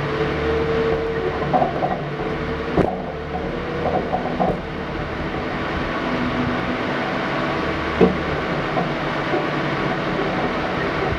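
An SUV engine idles steadily under a low, uneven rumble, broken by a few short sharp knocks, the loudest about eight seconds in.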